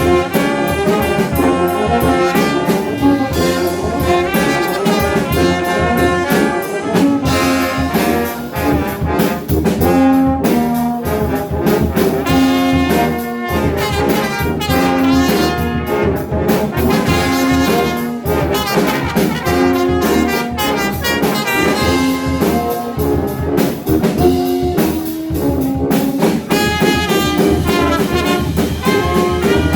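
Brass band playing a metal song live: trumpets and trombones carry the melody in short changing phrases over rapid percussive hits.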